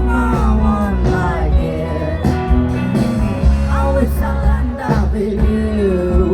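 Rock band music with a singer's voice over bass, guitar and drums.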